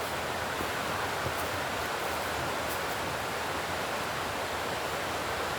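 A river running close by, a steady rush of flowing water.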